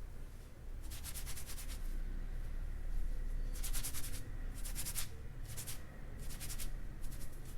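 Hair being rubbed and stroked close to the microphone: about six short, crisp rustling strokes, each around half a second, over a faint low hum.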